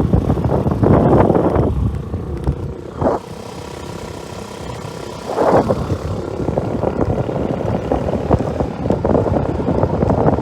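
Wind buffeting the microphone in a steady rush. It goes quieter for about three seconds in the middle, broken by two short gusts.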